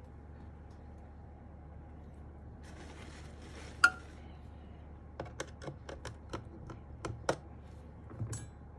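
Small screwdriver tried against the single case screw of a mechanical keyboard: a brief scrape with one sharp click about four seconds in, then a quick run of about eight light clicks and taps, and one more near the end. The tip turns out too small for the screw.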